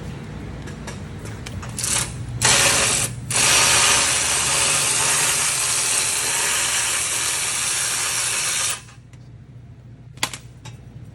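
Pneumatic wrench running, two short bursts and then one long run of about five seconds that stops suddenly, as it backs off the bolts joining the headers to the exhaust. A single sharp click follows near the end.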